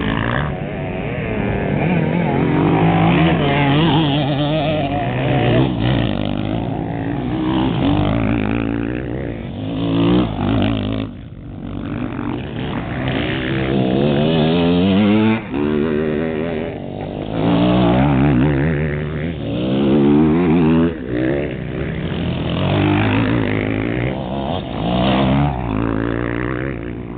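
Motocross bikes racing past, their engines revving up and dropping back again and again as they run down the straight and through the corner, several bikes overlapping.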